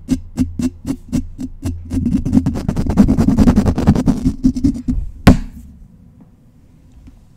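Scratching directly on a microphone, up close. It starts as separate strokes about four a second, turns into a fast, dense flurry of scratching, and ends with one loud stroke a little after five seconds in, after which it stops.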